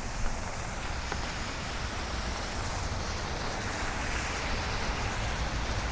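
Steady hiss of street traffic with wind rumbling on the microphone, swelling a little in the middle as vehicles pass.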